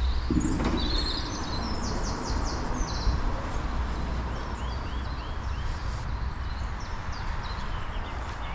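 Small birds chirping, with quick runs of short high notes in the first few seconds and a few more chirps later, over a steady low outdoor rumble.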